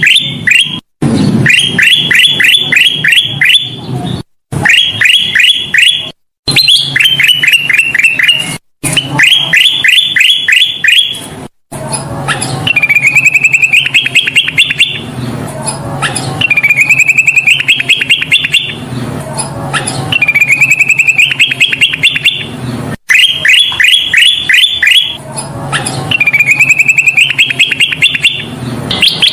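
Kutilang emas bulbul singing loudly: short bursts of rapid, evenly spaced chirps broken by abrupt cuts, then from about halfway repeated rising trilled phrases, each a couple of seconds long.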